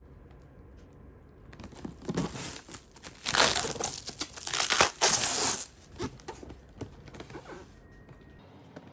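Packaging being handled and torn open: irregular crinkling and tearing, starting after a short quiet, loudest in the middle and dying away near the end.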